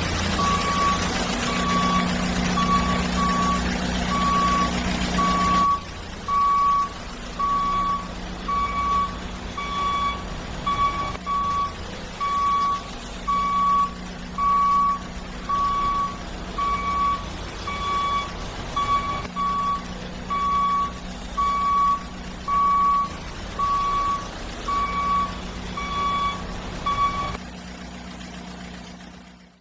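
Battery-powered toy JCB digger's sound effect: a high reversing beep repeating a little more than once a second over a low engine hum. The hum is louder for the first six seconds, and the beeping stops near the end.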